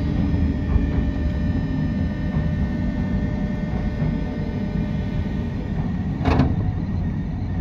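JR West 201 series electric train running, heard from inside the car: a steady low rumble of the wheels on the rails with a faint steady high whine, and one short sharp knock about six seconds in.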